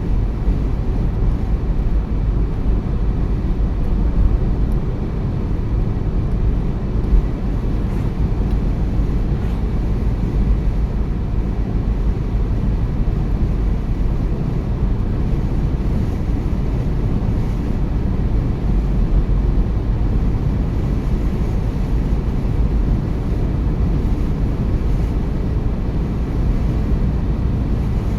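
Steady low rumble of a car on the move, heard from inside the cabin: tyre and road noise with the engine underneath, unchanging throughout.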